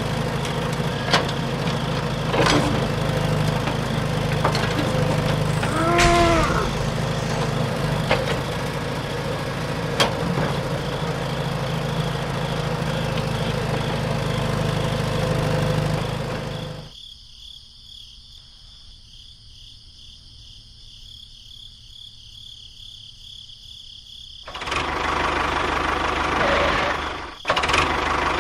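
A small engine running steadily, with scattered clicks and knocks. About two-thirds of the way through it cuts to a faint hum for several seconds, then the engine sound returns.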